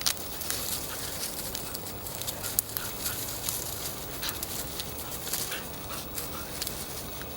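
Footsteps crackling along a forest path, with a few short high calls from an animal.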